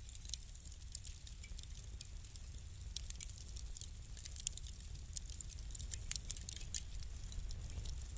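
Wood fire crackling in a fireplace: many small sharp pops and snaps at irregular intervals over a steady low rumble.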